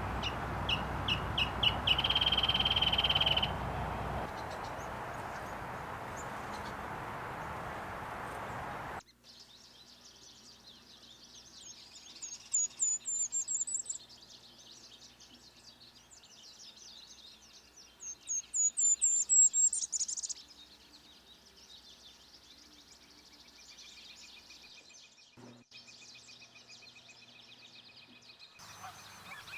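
Wild birds singing and calling in two spliced recordings. First comes a quick series of high chips and a held high note over a noisy background. After a sudden cut, a quieter recording has two loud phrases of rapid, rising high notes a few seconds apart over a faint chorus of other calls.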